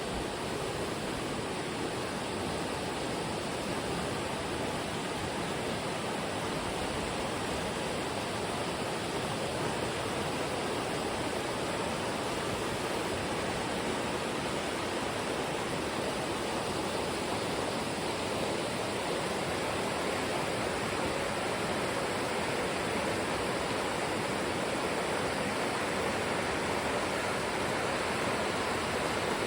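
Steady rush of running water, unbroken and growing slightly louder toward the end.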